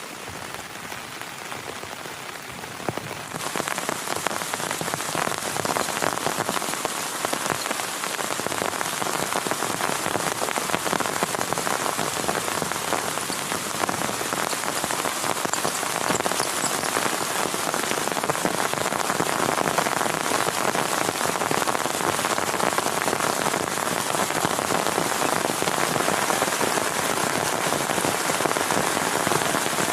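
Heavy rain falling in a dense, steady hiss of drops, becoming louder and fuller about three seconds in.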